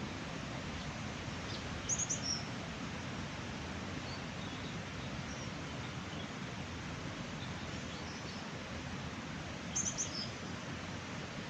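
A small bird gives a quick run of high chirps about two seconds in and again near the end, over a steady rushing background noise.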